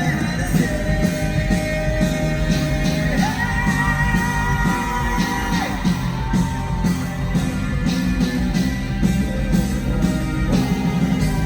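Live pop-rock band playing: drums, bass and guitars under long held melody notes that glide up about three seconds in, with some singing or crowd shouts mixed in.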